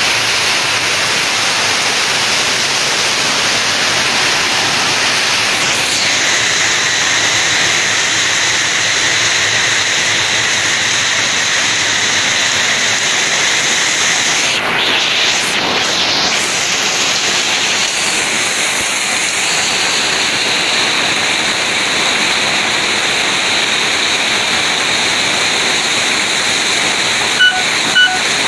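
Heavy storm of rain and hail driven by strong wind: a steady, dense roar of noise. Two short electronic beeps sound near the end.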